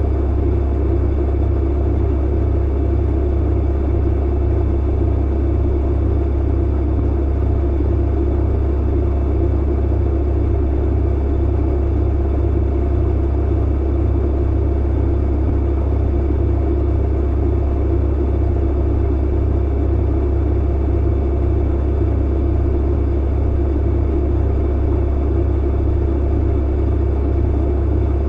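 Clothes dryer running steadily: a deep, even hum and rumble from the motor and drum, with no changes or knocks.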